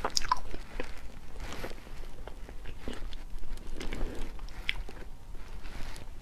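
Close-miked mouth sounds of a person eating soft Black Thorn durian flesh: chewing and lip smacking with scattered small clicks.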